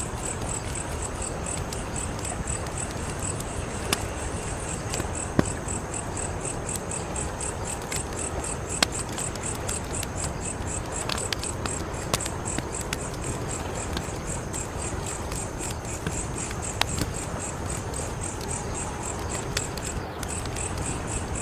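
Wood fire crackling, a steady hiss with sharp pops every few seconds, while crickets chirp in a steady, rapid high-pitched pulse behind it.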